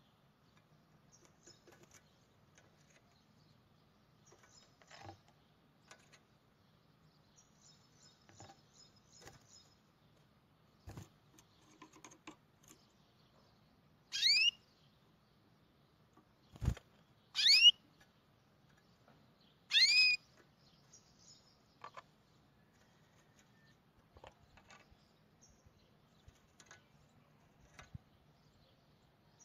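Three short chirps that rise in pitch, spaced a few seconds apart, a bird's call, with one sharp knock between the first and second. Around them, faint clicks and rustles of ribbon and glue gun handling.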